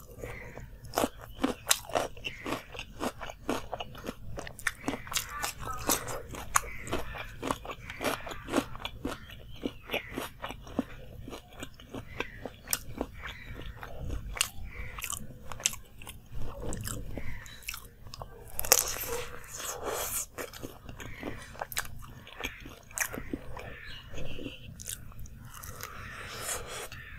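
Close-miked chewing and biting of crisp fried samosa pastry and raw vegetables: a steady run of sharp crunches, often a couple a second, with a louder, longer crunch about two-thirds of the way in.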